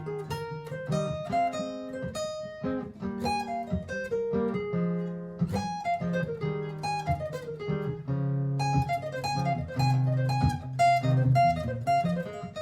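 Acoustic-electric guitar (Martin GPCPA4) playing a fast line of single plucked notes over a looped strummed chord part from a looper pedal, with no singing.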